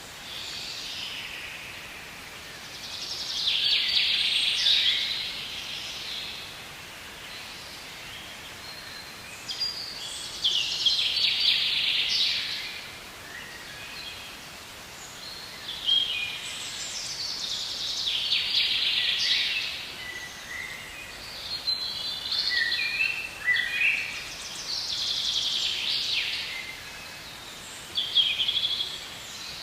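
Songbirds singing outdoors: song phrases of two to three seconds each, about every six or seven seconds, with shorter chirps between them, over a steady background hiss.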